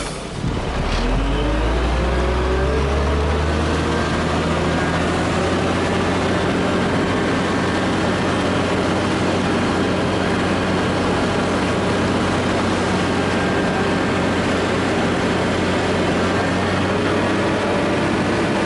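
Heavy machine engine revving up over the first few seconds, then running steadily at high revs.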